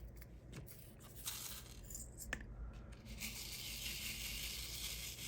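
Close handling of diamond painting materials: a few light clicks, then scratchy plastic rustling that turns into a steadier rustle about three seconds in.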